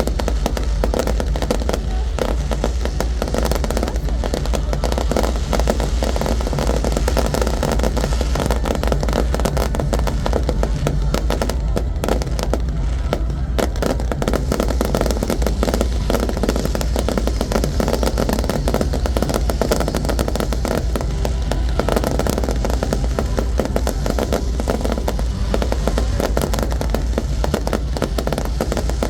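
Fireworks going off in a dense, continuous barrage of bangs and crackles, with a constant deep rumble underneath.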